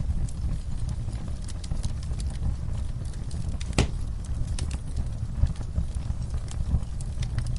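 Wood fire crackling in a fireplace over a low steady rumble of flame, with irregular small snaps and one louder pop about four seconds in.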